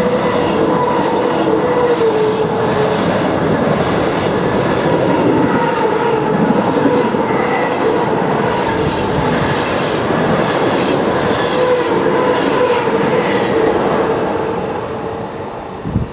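A train passing on the rails, with a steady, slightly wavering whine over the rolling wheel noise, dying away near the end.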